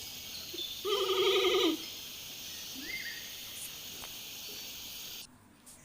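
Giant panda bleating once, a wavering goat-like call just under a second long about a second in, over a steady background hiss.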